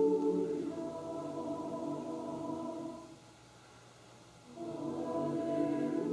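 Choir singing long held chords that fade away into a brief near-silent rest about three seconds in, then re-enter softly and swell.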